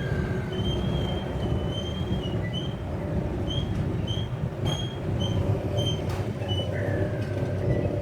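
A bird gives a run of short, high chirps, about two a second, with two brief downward-sliding calls, one at the start and one near the end. Under it runs a steady low rumble of an engine.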